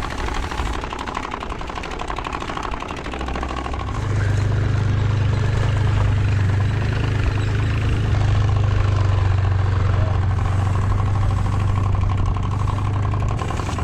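Turbospoke bicycle exhaust buzzing like a small motorbike engine as its plastic card flaps rapidly against the wheel spokes. It gets louder and settles into a steady buzz about four seconds in.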